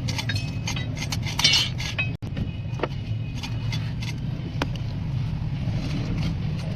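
Suzuki Cultus engine running steadily at idle, with light metallic ticks and clinks over it and a short loud burst of clinking about one and a half seconds in.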